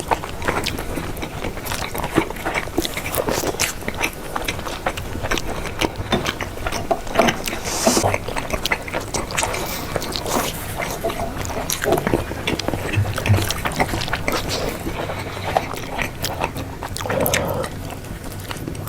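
Close-up eating sounds: a person biting and chewing spicy chicken wings, with a steady run of crunches and wet clicks.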